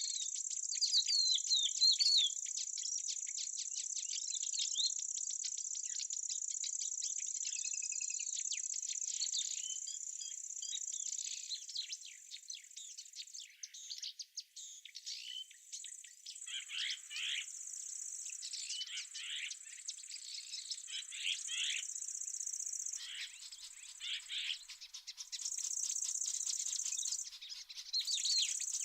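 A steady high-pitched insect trill, like crickets or bush-crickets, which starts and stops in stretches in the second half, with small birds chirping and twittering throughout. The birds give several short descending calls in the middle.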